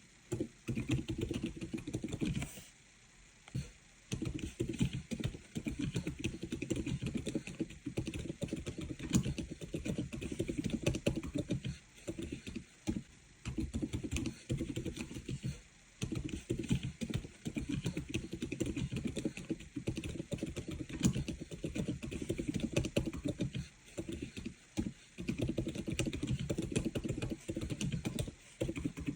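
Monstar Gear Ninja 96 PRO custom mechanical keyboard being typed on, a steady run of fast keystrokes with short pauses now and then.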